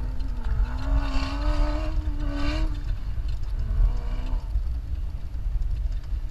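Jeep driving over sand dunes: a steady low rumble of engine and drive noise. A long wavering tone sits over it for the first three seconds, and a shorter, fainter one comes just before the midpoint.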